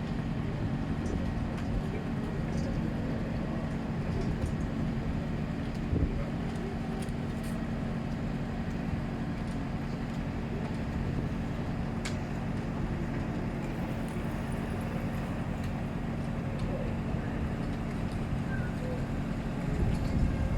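A motor vehicle's engine running steadily with a constant low hum; the sound grows louder and rougher near the end.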